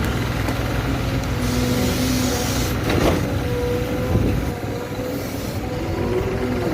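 Heavy engine running steadily, with a burst of hissing about one and a half seconds in and a sharp knock about three seconds in.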